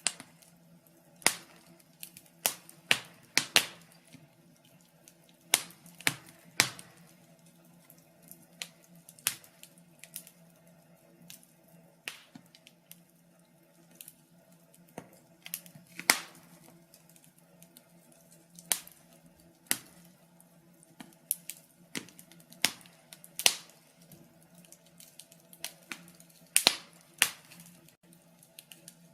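Wood fire crackling in a fireplace: irregular sharp pops and snaps at uneven intervals, some much louder than others, over a faint steady low hum.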